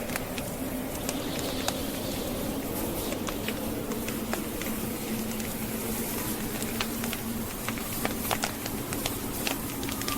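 Wood logs burning in a fireplace, crackling with many sharp, irregular pops, over the steady rushing howl of a snowstorm wind.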